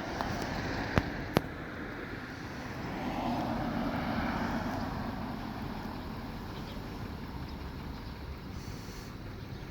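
Street traffic noise, with a vehicle passing that swells and fades a few seconds in. Two sharp clicks come close together about a second in.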